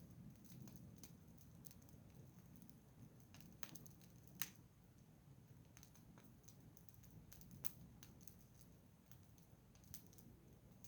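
Wood fire crackling faintly, with scattered irregular pops and one sharper, louder pop about four seconds in.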